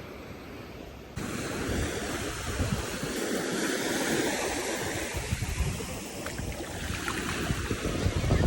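Wind buffeting the microphone over the rush of ocean surf, with no clear pitch. About a second in, the sound jumps suddenly louder.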